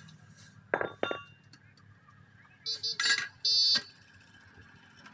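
A knock and two ringing metallic clinks, as steel tools strike a truck wheel while a tyre is being fitted. Then two short, loud vehicle horn honks past the middle, the second one longer.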